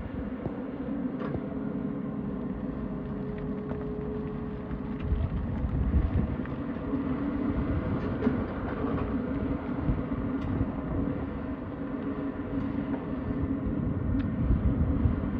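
Tata Hitachi excavator's diesel engine running steadily at work, with a low rumble that grows heavier about a third of the way in and a few light clicks and knocks.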